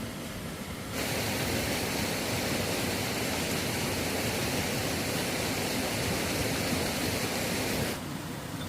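A steady rushing noise that cuts in abruptly about a second in and stops just as abruptly about a second before the end.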